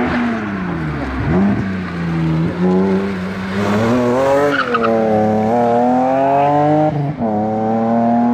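Hillclimb racing car's engine running hard up the course. The revs fall about a second in, then rise again and again through gear changes.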